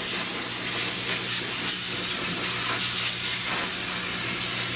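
A pressurised spray hissing steadily for about six seconds, then cutting off suddenly just after the end, over a faint steady hum.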